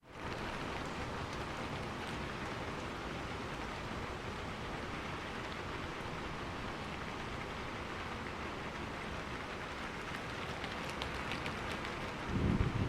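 Steady rain falling on a roof, fading in at the start, with a few sharper drop ticks near the end. In the last half second a low rumble swells up under the rain.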